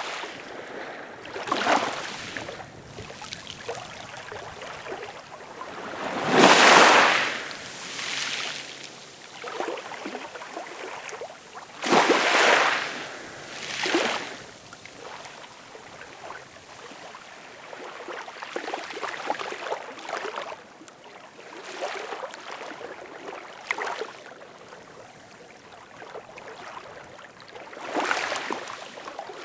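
Ocean waves washing in: rushing surges of water noise every few seconds over a steady wash, the strongest about six and twelve seconds in.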